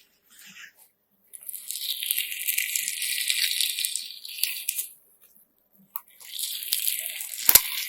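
Slime mixed with coloured sand being squeezed and worked by hand, giving a gritty crunching in two long stretches, with a sharp click near the end.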